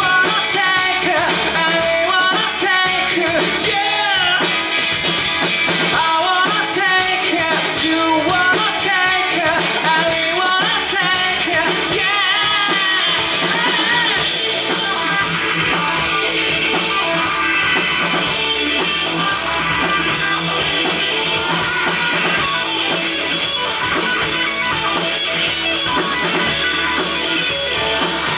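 Live indie rock band playing with electric guitar and drum kit; a wavering melodic lead line stands out over the first half, and the full band thickens from about halfway through.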